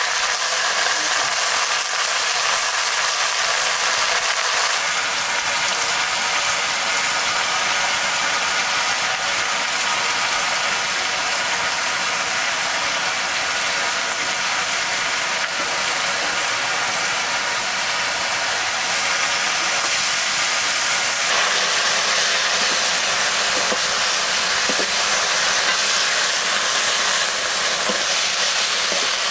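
Steady sizzling hiss of food frying in a hot pan over the fire, shifting slightly in tone about two-thirds of the way through.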